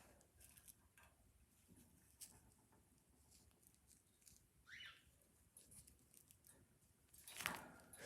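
Pet bird giving a short, sharp squawk about five seconds in, amid faint scattered clicks and scratches, with a louder burst of sound near the end.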